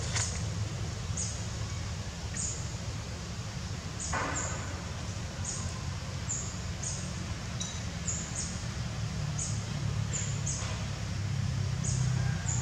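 A small bird chirping: short, high, slightly falling notes repeating irregularly about once or twice a second, over a steady low hum. A brief rustling noise comes about four seconds in.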